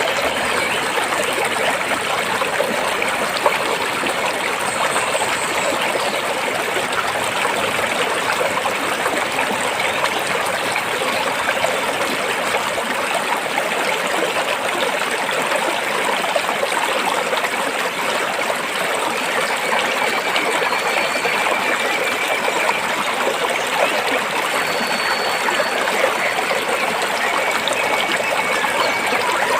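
Stream water flowing over and between rocks, a steady, even rush and babble.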